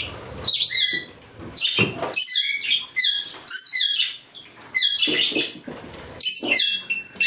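Pet parrots, budgies and cockatiels among them, chirping and squawking, several birds calling over one another in quick, short calls, as budgies are let out of their cage.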